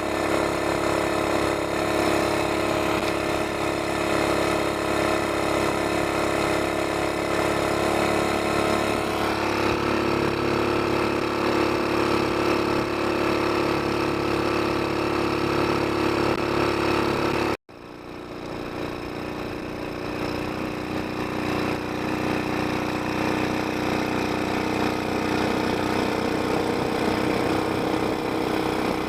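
Mud motor engine running steadily at a constant speed through its new straight exhaust pipe. The sound cuts off abruptly about seventeen seconds in and comes back a moment later, rising again.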